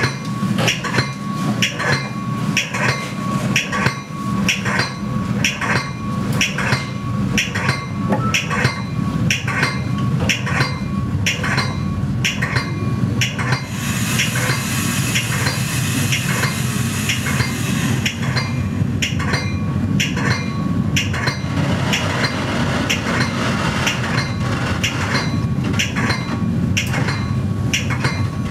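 Metra commuter train running on its rails, heard from inside the car: a steady low rumble with sharp metallic clacks about twice a second, and a hiss for a few seconds in the middle.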